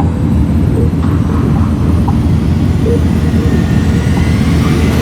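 Motorcycle under way on the road: a steady, loud low rumble of engine and road noise.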